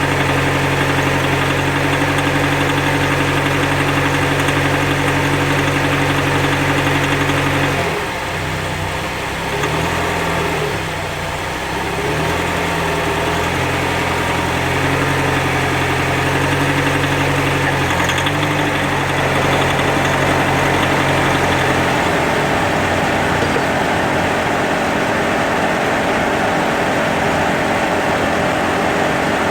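Car engine running with a steady low drone: the unexplained noise the owner hears when putting load on it in gear D. About eight seconds in the drone wavers and shifts in pitch for a few seconds, then steadies again, and near the end it thins into a rougher rumble.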